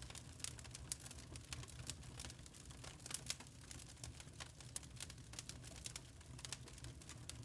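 Burning charcoal crackling: a constant scatter of small, irregular pops and ticks, some sharper than others, over a low steady rumble.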